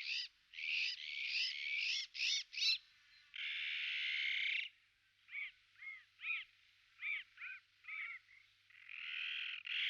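Animal calls: a run of harsh rasping calls, a steady hiss-like burst of about a second, then about seven short rising-and-falling call notes, and another raspy call near the end.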